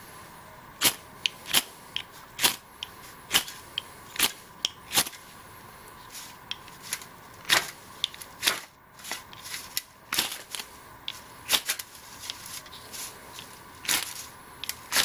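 Ferro rod struck again and again with a striker, a long run of short, sharp scrapes at about one to two a second with a brief pause partway through, showering sparks onto a bird's-nest tinder bundle that will not ignite.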